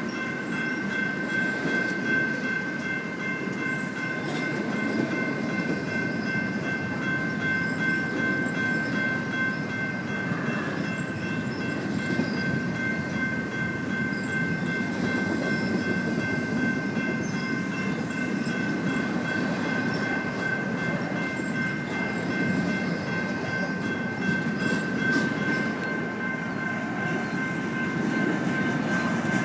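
A train's cars rolling past on the rails with a steady rumble, and a high, steady whining tone held over it the whole time.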